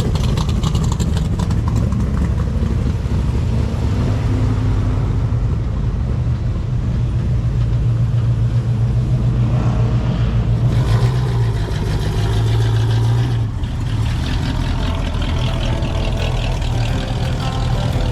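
A car engine running steadily with a low exhaust rumble, dipping briefly near the end.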